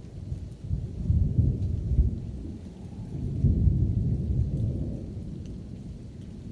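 Thunder rumbling in two long rolls, about a second in and again past the three-second mark, with rain falling steadily.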